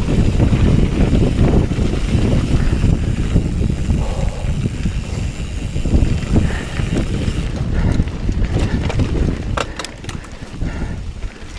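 Wind rumbling on the microphone over the tyre and frame noise of a Bird Zero 29 hardtail mountain bike riding a trail at speed. About eight seconds in the rush drops off and a run of sharp clicks and knocks from the bike going over the ground takes over.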